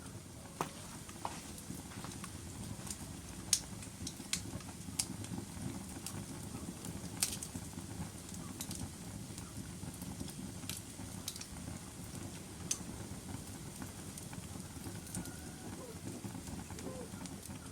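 Wood logs burning in a fireplace: a steady low rustle of flames with scattered sharp crackles and pops, the loudest pops about three and a half and seven seconds in.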